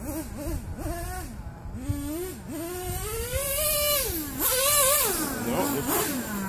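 Nitro Dynamite Mach 19 engine of an RC truck revving up and down in quick bursts, then climbing to a high pitch about three seconds in and dropping off about a second later. The truck is stuck in first gear, with the transmission not shifting into second, which the owner thinks needs replacing or rebuilding.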